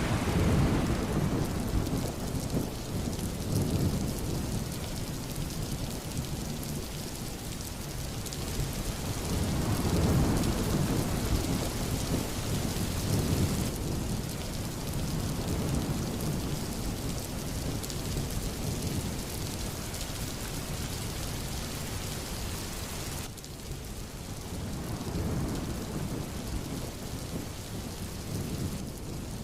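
Heavy rain falling steadily, with low rumbles of thunder that swell and fade several times. The sound changes abruptly twice, about 14 and 23 seconds in.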